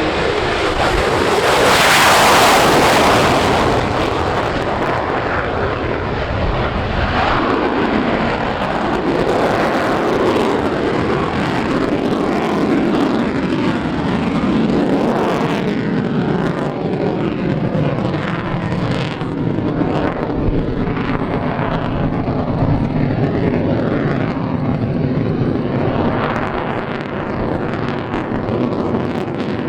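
Jet noise from an F-22 Raptor's twin Pratt & Whitney F119 turbofan engines during a flying display. It swells to its loudest about two seconds in, then runs on as a steady rumble with gentle rises and falls.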